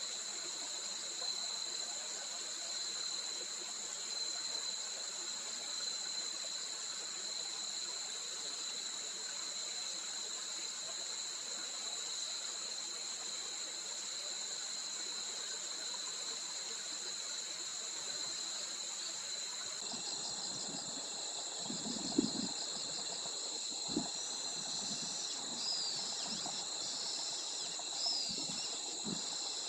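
Steady insect drone holding two continuous high pitches over a soft hiss of running water. About two-thirds of the way through, the background changes abruptly; short high bird chirps come in, along with a few low thumps.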